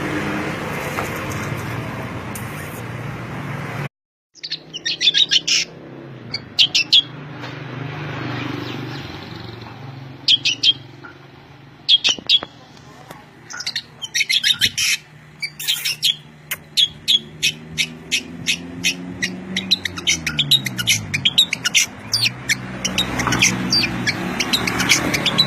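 A songbird chirping in repeated quick bursts of sharp, high notes over a low steady hum. About four seconds in, a steady noisy rumble stops abruptly and the chirping begins.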